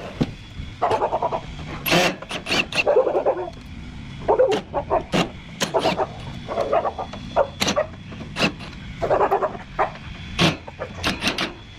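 Irregular knocks, clanks and short scraping bursts of metal and plastic parts being handled and pried apart while a window air conditioner is dismantled for scrap.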